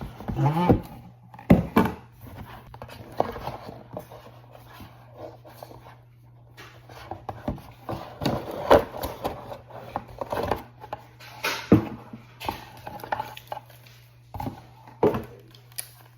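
Irregular handling noises: a scatter of sharp knocks, taps and short rustles as objects are picked up and set down, over a steady low hum.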